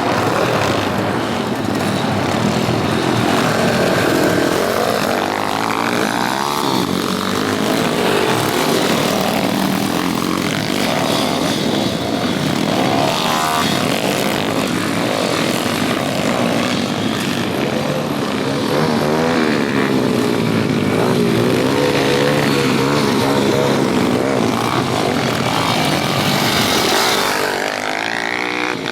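Several pit bike engines racing together, their pitch rising and falling as riders rev through gears and corners. Near the end one engine revs up sharply before the sound drops a little.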